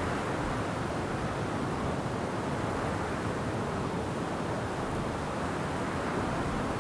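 Wind blowing through forest trees: a steady, even rush of noise with no distinct events.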